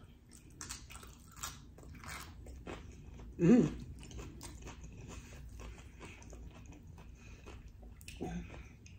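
Close-miked chewing of a mouthful of orange chicken: wet mouth clicks and smacks, with a brief hum from the throat about three and a half seconds in and a softer one near the end.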